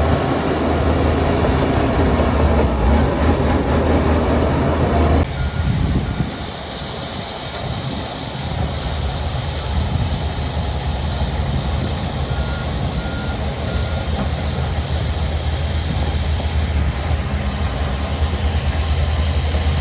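Heavy diesel earthmoving machinery running, a bulldozer and dump truck at work with a steady low engine drone. The sound shifts abruptly about a quarter of the way in. Three short reversing-alarm beeps come about two-thirds of the way through.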